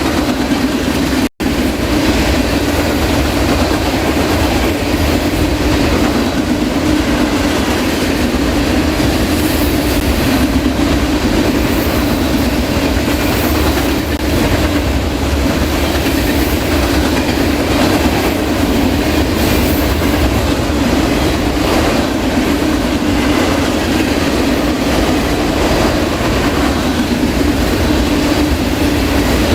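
Intermodal freight train rolling past at speed: a steady rumble of wheels on rail with clickety-clack from the cars, broken by a momentary dropout in the audio about a second in.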